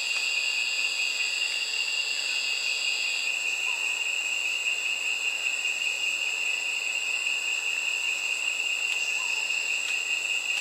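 A steady chorus of insects chirring at several high pitches; one of the higher voices drops out about three seconds in.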